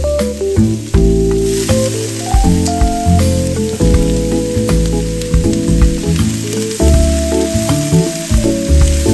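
Vegetables and raw squid pieces sizzling in a hot stainless wok; the sizzle grows louder about a second and a half in, as the squid goes into the hot oil, with spatula clicks and stirring. Background music with sustained notes plays throughout.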